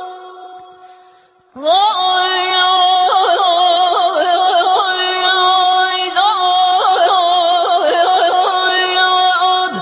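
Middle Eastern-style solo singing in a husky voice over a steady held drone note. The voice fades almost away, then re-enters about a second and a half in with an upward slide and runs of rapid, quivering vocal ornaments.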